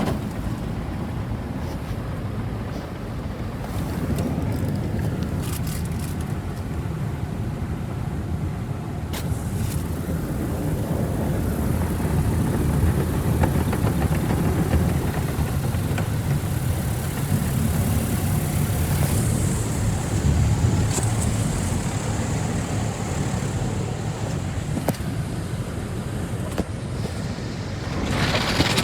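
Rotating cloth brushes of a Ryko Soft Gloss MAXX 5 soft-touch car wash scrubbing over the car, heard from inside the car as a steady low rumble with swishing. It grows louder and brighter near the end.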